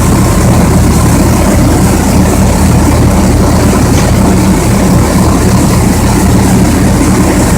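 Rice mill machinery running: a loud, steady mechanical drone with a constant low hum under a broad whirring noise, not changing throughout.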